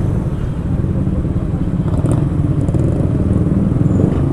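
Suzuki Raider 150's single-cylinder four-stroke engine running steadily at low revs as the motorcycle creeps through slow traffic.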